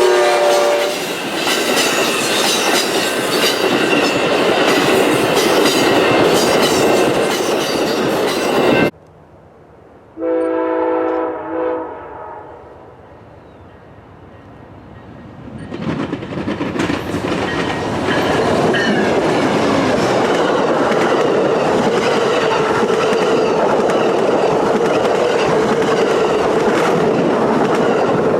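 Train horn chord dropping in pitch as it passes, then the loud rumble and wheel clatter of a passing train, cut off suddenly about a third of the way in. A short horn blast follows, and then another train's rumble builds and runs steadily loud to the end.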